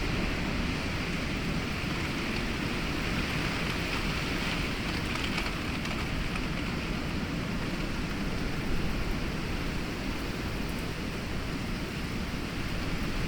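Heavy rain falling steadily with gusting wind, in a storm, recorded on binaural microphones through an open window.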